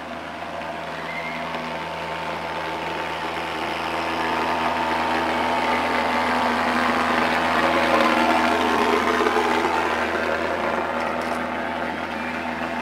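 Anti-mosquito fog truck with its thermal fogger running: a steady mechanical drone that grows louder, is loudest about eight seconds in, then eases off as the truck passes.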